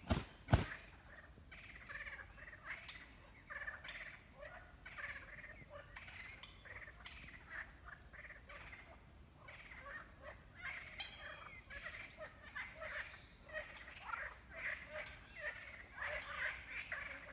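A single sharp knock about half a second in, then a dense run of short, irregular animal calls overlapping one another.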